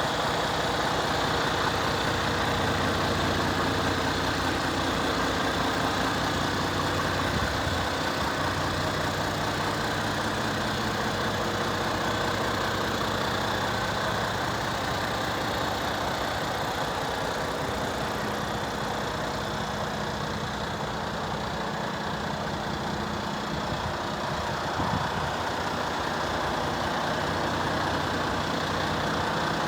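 Mack Pioneer truck's diesel engine idling steadily.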